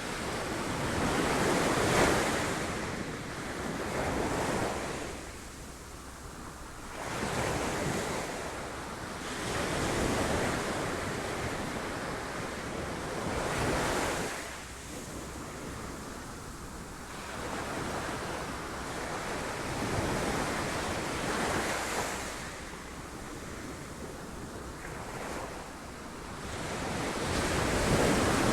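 Sea waves breaking on rocks, each surge swelling and then falling back, one every few seconds.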